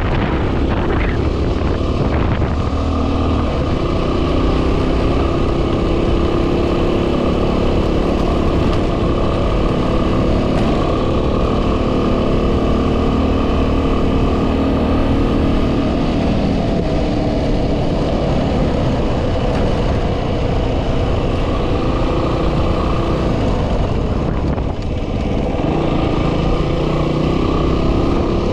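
Yamaha WR250R's single-cylinder engine running steadily as the motorcycle rides along, with heavy wind noise on the microphone. The engine note dips briefly near the end.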